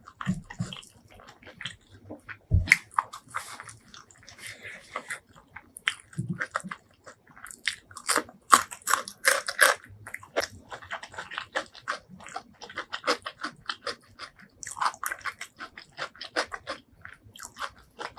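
Close-miked eating: biting and chewing with many short crunches and clicks.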